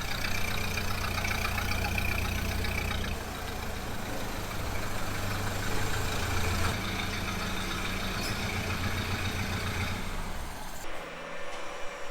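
1930 Ford Model A's engine idling with an even low beat. The sound shifts slightly twice and changes abruptly about 11 seconds in to a quieter steady hum.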